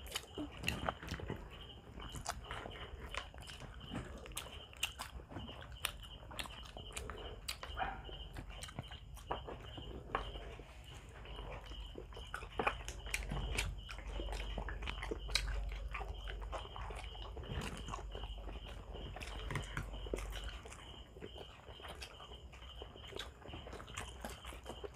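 Several people biting and chewing grilled barbecue skewers and rice, eaten by hand, with irregular clicks and smacks of eating.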